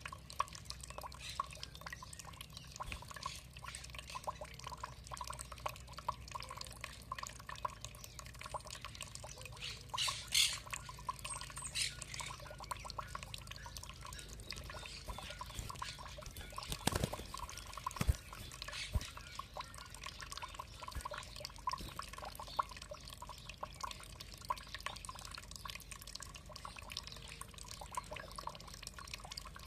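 Water dripping and trickling, a dense patter of small drops, with a brief high bird call about ten seconds in and a louder single splash a little past the middle.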